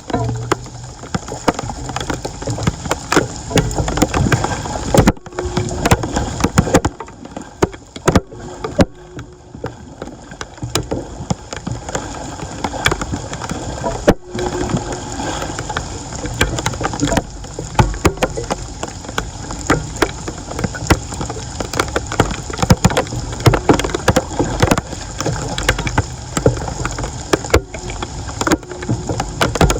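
Floodwater splashing and sloshing, with frequent knocks and scrapes, as debris is cleared from a clogged street drain by hand. The sound breaks off abruptly several times.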